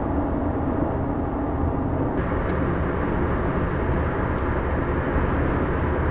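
Steady road and engine noise heard inside a car cruising on a freeway.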